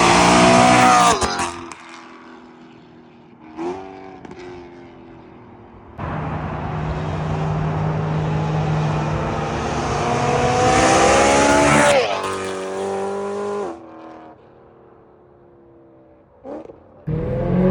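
BMW E92 M3's V8 through a straight-piped Valvemaster catback exhaust (no resonators), accelerating hard in loud pulls that climb in pitch: one cut off about a second in, a long one from about six to twelve seconds, and another starting near the end, with a quieter cruise and a short rev blip in between.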